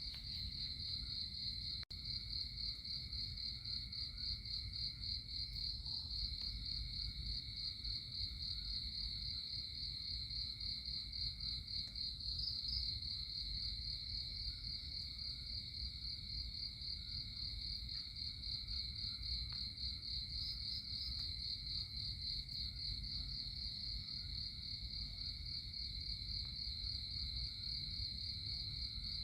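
Crickets trilling without a break in a high, steady, finely pulsing tone, over a low steady rumble.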